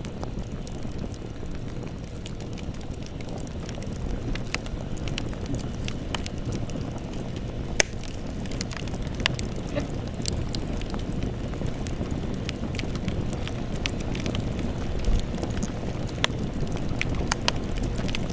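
Campfire burning: a steady low rumble of flames with scattered sharp crackles and pops, one louder pop about eight seconds in.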